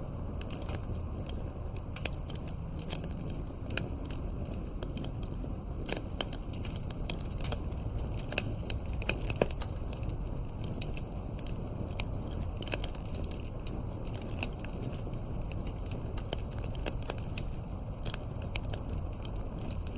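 Wood campfire burning, with frequent irregular sharp crackles and pops over a steady low rush of flame.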